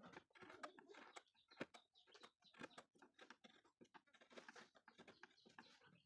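Faint, irregular clicks and short scraping sounds in a small room, near silence overall.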